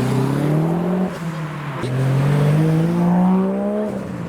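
Honda Civic's engine accelerating hard: its pitch climbs, drops at a gear change about two seconds in, then climbs again through the next gear.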